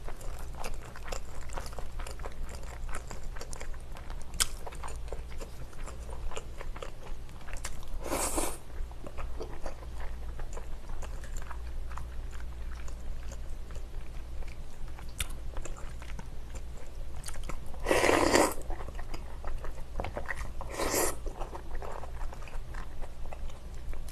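Close-miked chewing of a mouthful of rice, with many small wet mouth clicks. Three short, louder noisy bursts come about eight, eighteen and twenty-one seconds in, the middle one the loudest.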